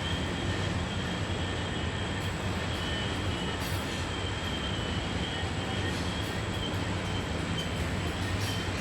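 Loaded coal hopper cars of a long Norfolk Southern coal train rolling past with a steady rumble. A thin, wavering high squeal runs over it: wheel flanges grinding on the tight curve.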